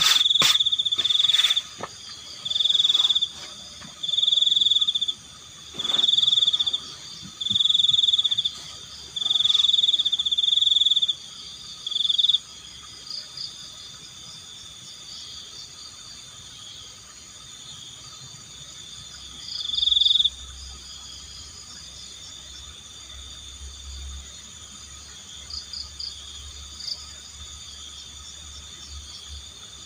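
Night chorus of crickets and frogs in a tropical forest. One loud, high trilling call repeats about every two seconds for the first twelve seconds and once more about twenty seconds in, over a steady high insect hum.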